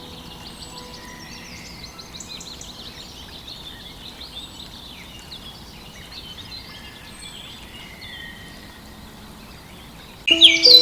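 Many birds chirping and trilling in a steady chorus, with faint held musical tones underneath early on. About ten seconds in, much louder, rapid bird calls start suddenly, together with held music notes.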